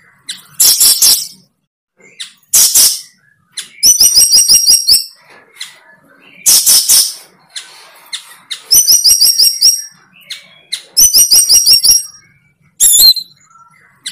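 A bird calling loudly and close by in repeated bursts every second or two. Harsh, rasping calls alternate with quick trills of repeated high notes.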